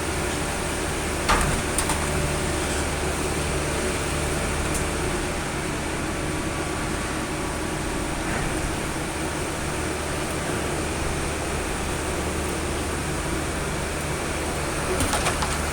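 Colmar P5 260 scrap-metal baler running steadily under its hydraulic power unit, a constant machine hum, with a sharp metal knock about a second in and a few lighter knocks near the end as the car body is compressed.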